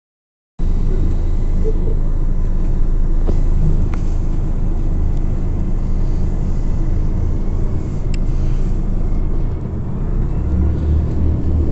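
Scania OmniCity CNG city bus heard from inside the cabin while driving: a steady low engine and road rumble that starts about half a second in, with a few faint clicks and rattles.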